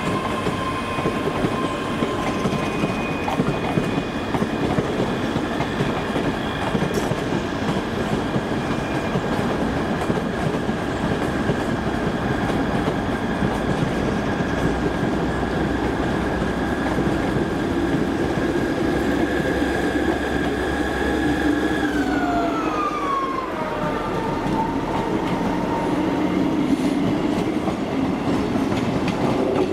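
Passenger trains running through a station, with wheels clattering over the rail joints. A ScotRail Class 385 electric multiple unit pulls out with a steady high whine, and a second high whine falls sharply in pitch about 22 seconds in.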